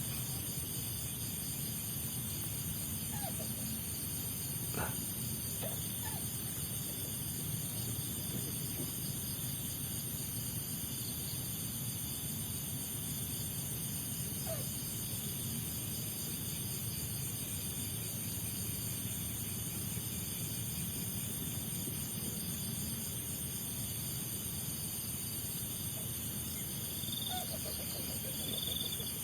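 Steady night ambience at the waterside: insects chirring and an even hiss, with a few faint short calls now and then.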